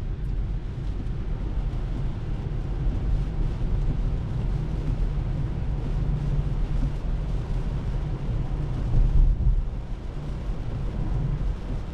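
Cabin road noise of a Tesla Model 3 at highway speed: a steady low rumble of tyres on a wet road, with a low thump about nine seconds in.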